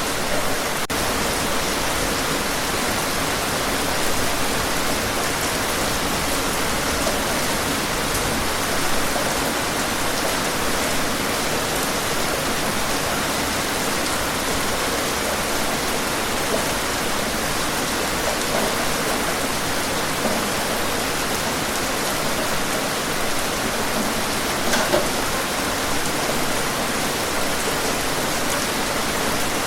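Steady heavy rain, an even hiss without let-up.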